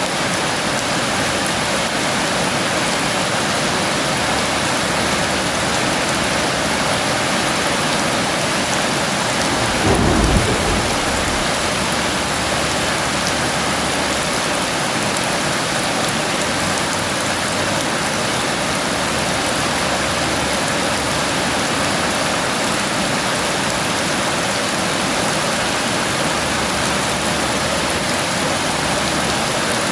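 Heavy rain falling steadily. About ten seconds in there is a short, low rumble of thunder.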